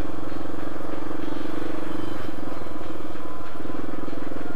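Kawasaki KLR650's single-cylinder engine running steadily under the rider on a dirt trail. The note fades for about a second and a half in the middle, then comes back.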